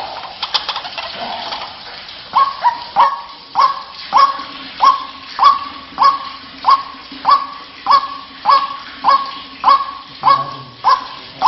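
White-breasted waterhen calling: a few scattered notes, then from about two seconds in a regular series of loud, honking "kwak" notes, about one and a half a second, each rising sharply and held on one pitch.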